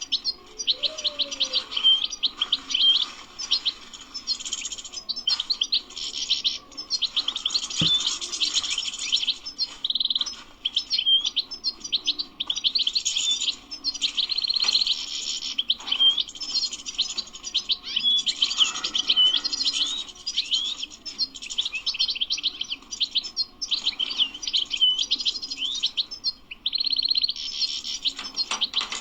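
European goldfinch singing: a long run of rapid, twittering song in phrases broken by brief pauses.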